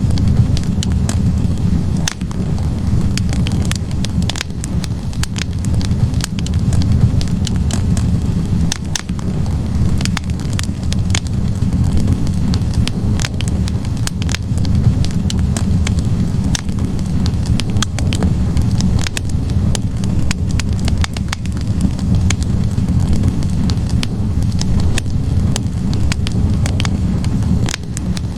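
Wood fire of burning logs crackling steadily, with frequent sharp irregular pops over a low steady rumble of the flames.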